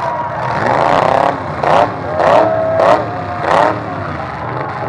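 Derby truck engine revving hard in a run of about five sharp throttle bursts over a steady engine drone, the pitch jumping up and falling back with each one.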